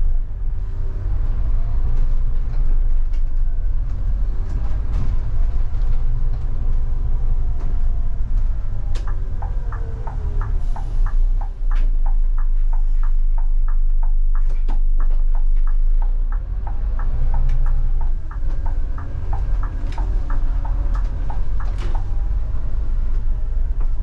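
Scania K250IB bus's diesel engine running on the road under a heavy low rumble, its pitch rising and falling with road speed and gear changes. From about nine seconds in until near the end, a regular ticking sounds about twice a second.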